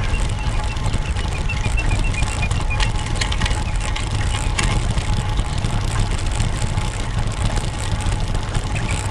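Wind rumbling over the microphone of a camera on a moving road bike: a steady, low, buffeting noise. In the first three seconds a faint run of evenly spaced light ticks sits above it.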